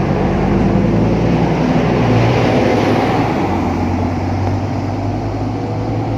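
Diesel engine of a Scania K310UA articulated bus running, growing louder over the first two seconds and then easing slightly.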